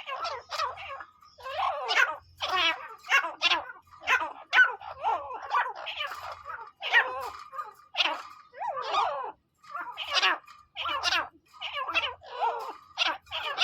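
Teetar (francolin) calling over and over: quick clusters of short, sweeping, squeaky notes in a steady run of loud calls.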